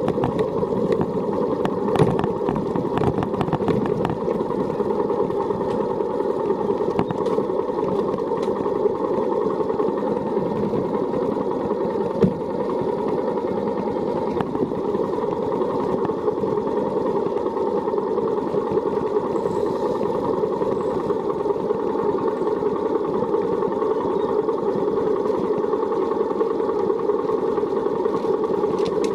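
An engine running steadily, with a couple of brief knocks, around 2 and 12 seconds in.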